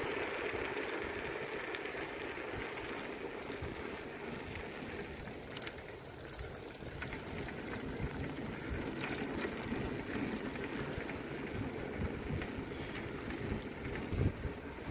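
Wind buffeting the microphone and rolling noise from a moving bicycle, with a few small rattles.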